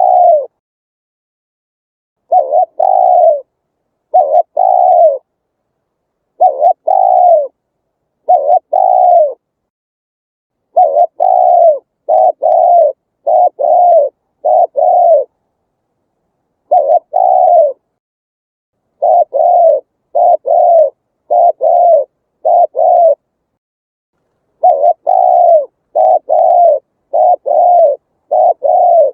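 Spotted dove cooing: repeated coos, each falling in pitch, come in runs of two to five with short pauses between runs. There is no background noise between the calls.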